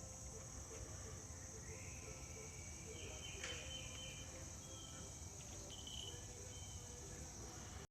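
Steady, high-pitched insect chorus of late-summer crickets or similar insects, with a few faint short whistles over it.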